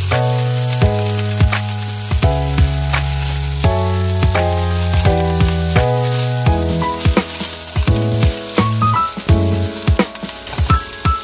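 Vegetables sizzling in a hot wok as they are added and tossed with a spatula, the hiss jumping up as they hit the oil, with clicks of the spatula against the pan. Background music plays alongside.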